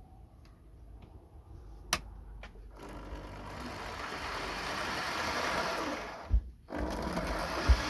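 Hornby 00 gauge model train running on the track, a small electric motor with wheels rattling on rail. It grows louder from about three seconds in as it comes nearer, then a thump and a brief drop-out a little after six seconds before the running resumes.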